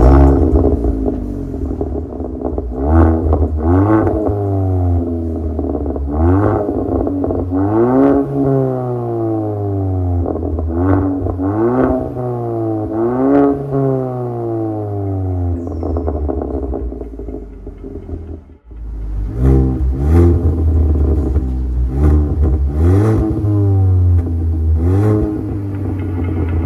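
Hyundai Tucson NX4's 1.6-litre turbocharged four-cylinder engine revving again and again through an MS-R valved cat-back exhaust, its pitch rising and falling every second or so. There is a brief break about two-thirds of the way through, then more revs.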